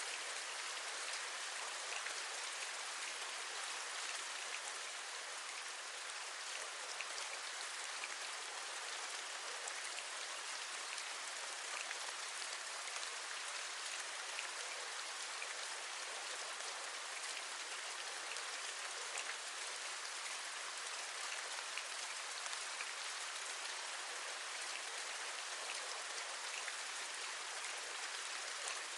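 Steady rain: an even hiss of falling rain with many small, sharp drop taps scattered through it.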